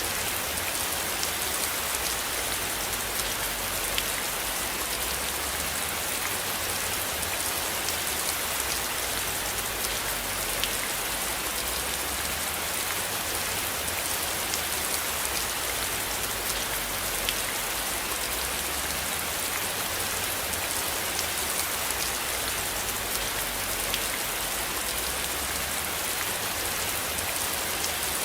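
Steady rain: an even hiss of drops on a surface, with a single sharper drop click every six or seven seconds.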